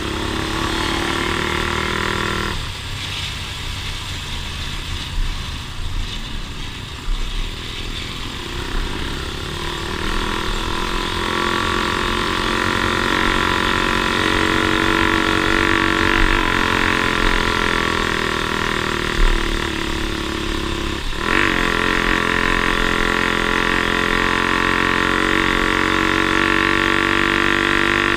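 Off-road vehicle engine running steadily under way, its pitch shifting abruptly a few seconds in and again about three-quarters of the way through, as with a gear change.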